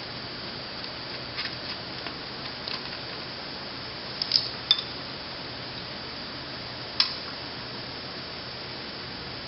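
Scattered light metallic clinks and taps of a wrench working the valve service caps off a small ATV engine, over a steady hiss. The clinks cluster near the middle, with one sharp clink about seven seconds in.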